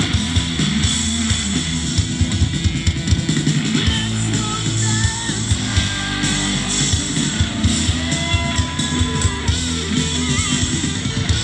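Rock band playing live: electric guitar, bass and drum kit, loud and dense, with frequent drum hits.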